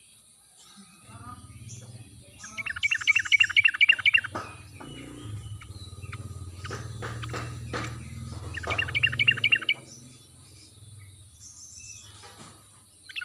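Yellow-vented bulbul (trucuk) giving two bursts of rapid, bubbly chattering notes, with scattered softer notes between. A low rumble and a few clicks run underneath.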